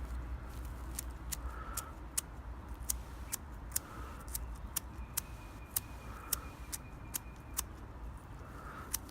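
A fire sparker being struck again and again, sharp clicks about two to three a second, as it is worked to throw sparks onto char cloth in a tinder bundle.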